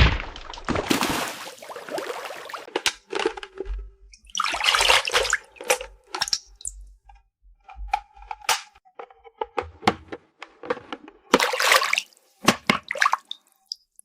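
Running water stops, then small plastic toy pieces knock and clink together, with short swishes and splashes of water from a toy play sink in between.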